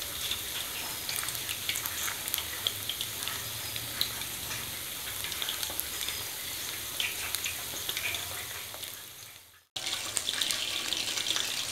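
Coated chicken wings deep-frying in hot oil in a wok: a steady sizzle with scattered crackling pops. It fades out about nine seconds in, drops out for a moment, then picks up again.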